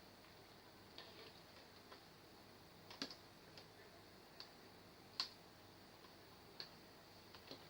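Near silence with a faint steady high hiss, broken by a few short, irregular clicks and light taps, the loudest about five seconds in.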